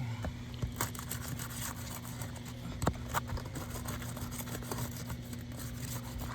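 Asphalt roofing shingles being pried apart at their sealed tar strips: scattered crackles, scrapes and sharp ticks, over a steady low hum.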